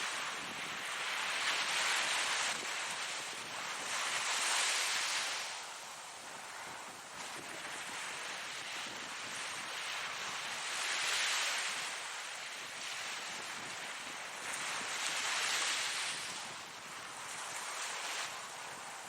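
Ocean surf washing onto the shore: a steady rushing noise that swells and eases as the waves break, with four louder surges.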